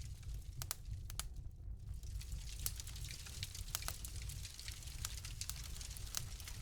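Wood fire crackling in a fireplace: irregular sharp pops and snaps, a few every second, over a steady low rumble of the flames.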